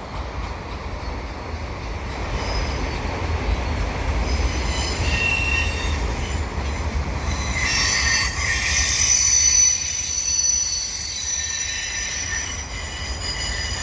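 Freight cars of a slow, heavy train rolling past with a steady low rumble. Steel wheels squeal against the rails in thin high tones, strongest from about eight seconds in.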